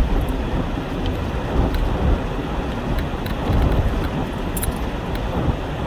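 Steady rumble of a pickup truck driving on a snow-covered road, heard from inside the cab, with a few faint clicks and rattles.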